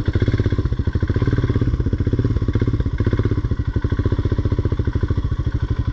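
Motorcycle engine idling just after being started, with a rapid, even exhaust beat through a barrel exhaust.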